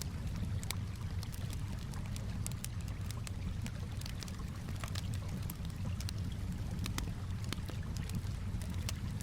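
Campfire crackling with frequent irregular sharp snaps, over a steady low wash of calm water lapping.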